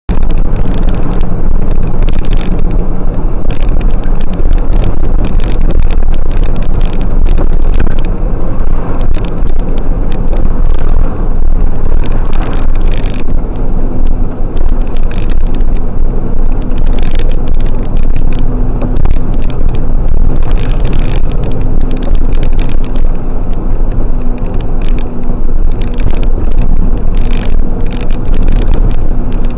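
Loud, continuous noise of a car on the move, its engine and road noise dense and low, with frequent short knocks and rattles. A steady hum joins in about thirteen seconds in and fades near the end.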